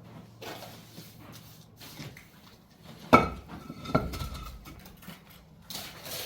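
Scraping of plastering tools, with a sharp metallic clank about three seconds in that rings on briefly, and a second knock about a second later.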